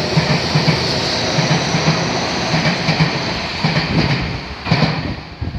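Tobu 50070 series ten-car electric train pulling out and running past, its wheels clacking over the rail joints in a regular rhythm of paired knocks. The sound drops away near the end as the last car passes.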